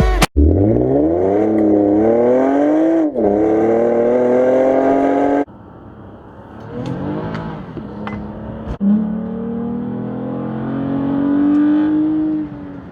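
2019 Toyota Camry XSE's 3.5-litre V6 with a Magnaflow stainless exhaust and AEM cold air intake, accelerating hard: the revs climb, dip at an upshift about three seconds in, and climb again. After a sudden drop a little over halfway, the engine is heard quieter, rising and falling, then pulling up steadily again.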